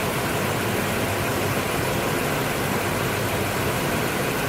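Chrysler 9.2 hp two-stroke outboard motor running steadily at idle.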